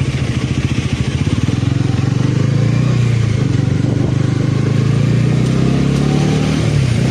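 Motorcycle engine running steadily under way, its pitch dipping briefly near the end before it picks up again, with wind noise over the microphone.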